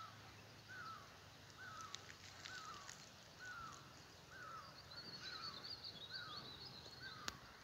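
A bird repeats a short, slightly falling call about once a second. Through the second half another bird adds a quick, high twittering.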